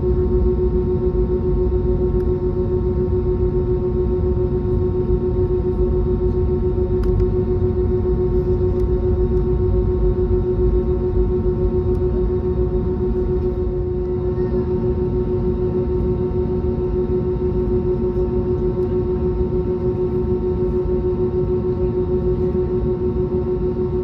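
Airbus A320neo cabin during taxi: the engines at idle give a steady hum with one strong held tone over a low rumble.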